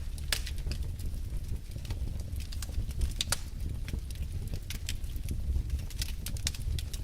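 Wood fire in a fireplace crackling: irregular sharp pops and snaps over a steady low rumble of burning logs.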